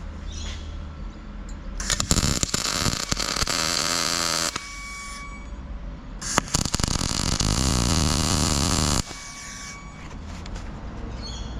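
Wire-feed welder tacking a round top plate onto a square-tube cone spike: two crackling arc runs of a few seconds each, with a steady low hum before and between them.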